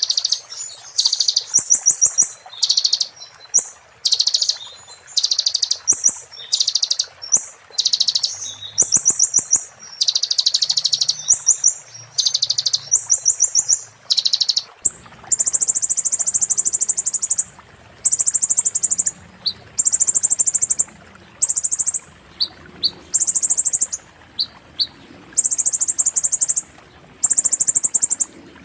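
Konin songbird singing in phrases about a second long with short gaps between them. In the first half the phrases are rapid, high trills. From about halfway through the song switches to repeated shrill, steady high notes.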